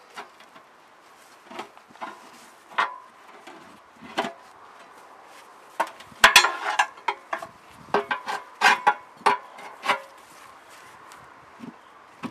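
Irregular knocks and clanks of tools and metal parts being handled, with a busy run of clatter about six seconds in.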